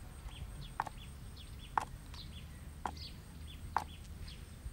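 Birds chirping in short high calls, with a sharper, brief sound about once a second.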